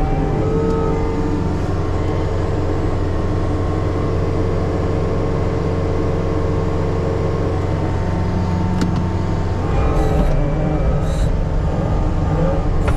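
Diesel engine of heavy earthmoving equipment running steadily under load, its note changing about ten seconds in.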